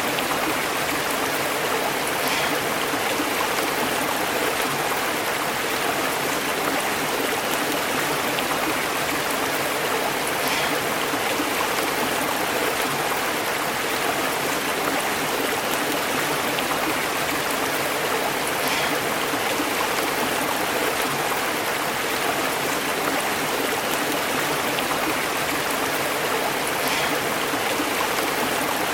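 A stream burbling and bubbling over rocks in a steady, unbroken flow of water.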